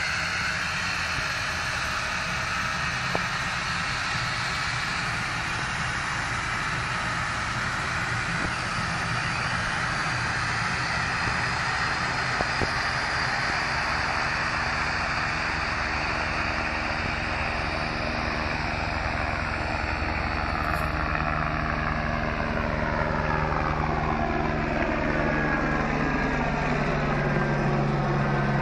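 Helicopter engine and rotor running steadily. A low hum grows louder near the end, and a sweeping, falling tone runs through the noise in the later part.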